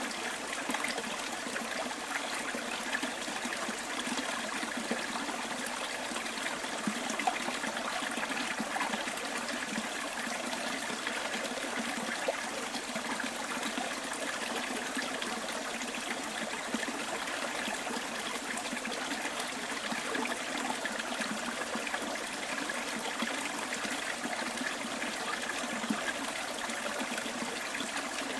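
Stream water running steadily, an even rush of flowing water with small splashes throughout.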